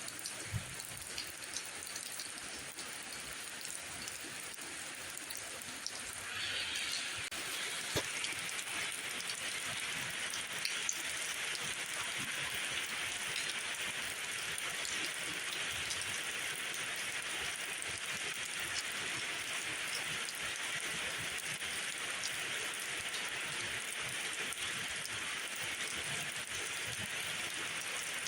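Steady rain falling, with scattered sharp drop ticks; a brighter, denser hiss joins about six seconds in and holds.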